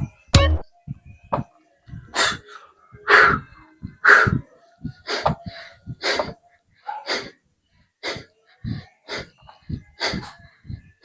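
A person breathing hard during exercise reps: short, forceful exhalations, roughly one a second.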